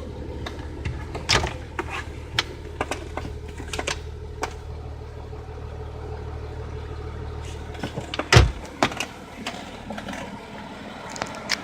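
Car's diesel engine running at a steady low hum, with scattered clicks and knocks throughout, and a loud thump about eight seconds in, after which the hum mostly fades.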